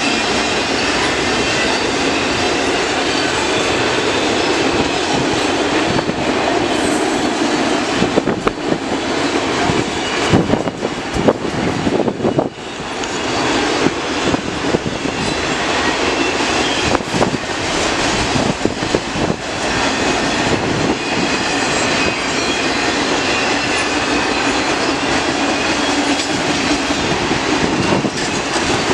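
Cars of a CN mixed freight train rolling past, a steady loud rumble of steel wheels on rail. A cluster of clacks and knocks from the wheels and couplers comes around the middle.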